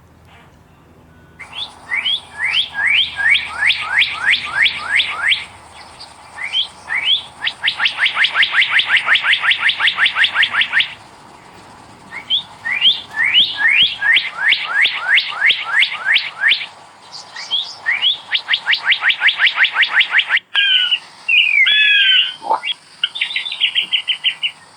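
A bird calling in runs of quick, falling chirps that speed up into fast trills, with short pauses between the runs. Near the end, after a sudden break, come different, curving warbled calls.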